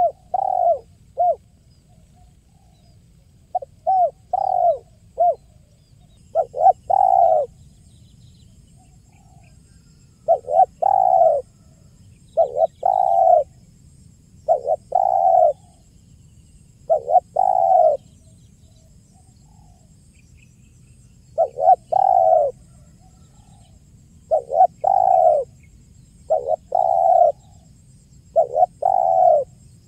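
Spotted dove (tekukur) cooing: short phrases of a few coo notes, repeated every second or two with brief pauses between.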